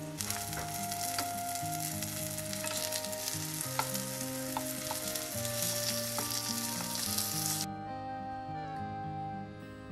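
Egg-battered zucchini slices frying in oil in a pan, a steady sizzle, with a few light clicks of chopsticks and a wooden spoon against the pan as the slices are turned about four seconds in. The sizzle cuts off abruptly near the end.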